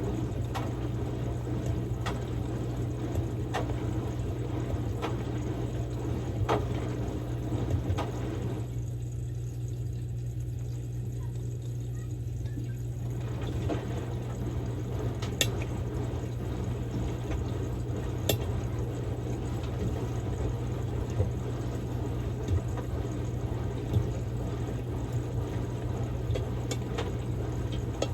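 Samsung Grande washing machine on a quick-wash cycle with a padded jacket: steady motor hum with water sloshing and splashing in the turning drum, and scattered light clicks and knocks. The splashing drops away for a few seconds near the middle, then comes back.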